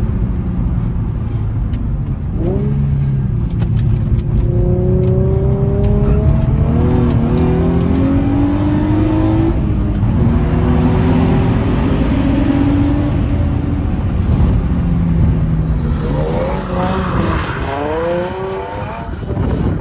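Infiniti G35 coupe's 3.5-litre V6 accelerating, heard from inside the cabin: the engine note climbs in each gear and drops back at each upshift. Near the end, heard from outside, the coupe is drifting and its revs swing quickly up and down.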